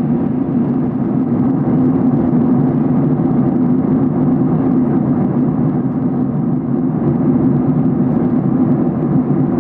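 Steady cabin noise of a Boeing 737-800 in descent: engine and airflow drone, heaviest in the low-middle range, with a faint hiss above.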